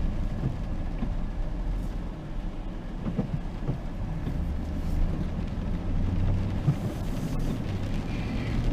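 Vehicle driving on a rainy road: a steady low rumble of engine and tyres.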